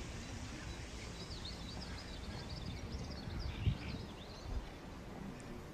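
Outdoor ambience: small birds chirping in quick, repeated calls over a steady low rumble, with a single dull thump about halfway through.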